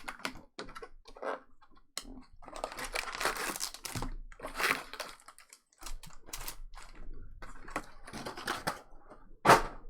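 Trading card packaging being handled and opened: wrappers crinkling and tearing, with scattered taps and clicks and one louder sharp rustle near the end.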